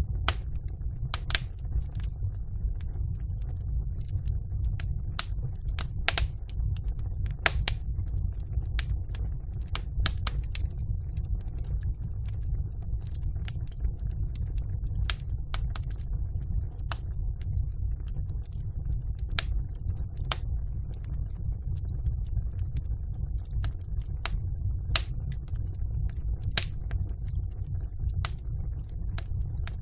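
Wood fire burning in a fireplace: irregular sharp crackles and pops over a steady low rumble, with a few louder pops scattered through.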